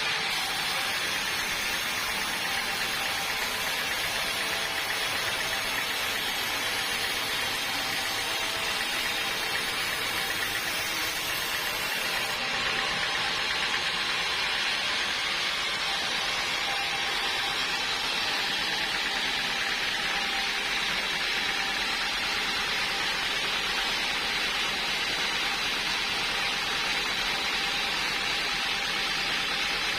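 Sawmill machinery running steadily, a constant hissing noise with no distinct strokes or breaks; the top end shifts abruptly about twelve seconds in.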